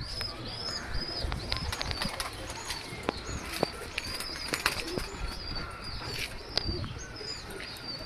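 Domestic pigeons cooing faintly, with wing flaps and scattered sharp clicks, over a steady run of short high chirps repeated several times a second.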